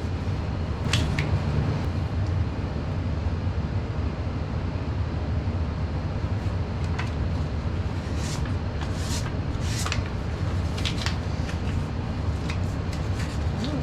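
Central air conditioner's indoor unit running with a steady low hum, with scattered short clicks and taps over it.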